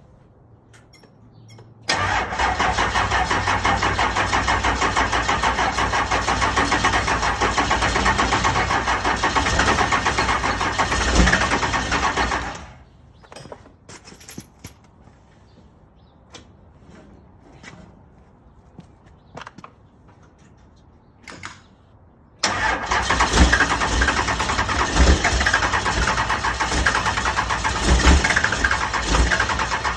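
Car engine cold-started: it catches suddenly about two seconds in and runs loud for about ten seconds, then cuts off. After about ten seconds of quiet with a few clicks, it starts again just as suddenly and runs loud.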